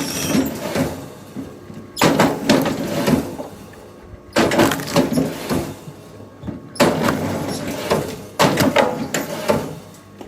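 Wood cracking and splintering in repeated crackling bursts, each a second or so long, about every two seconds, over a faint steady machine hum.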